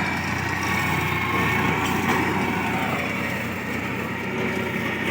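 Tractor engine running steadily while powering a tractor-driven mulcher, the grass-clearing machine.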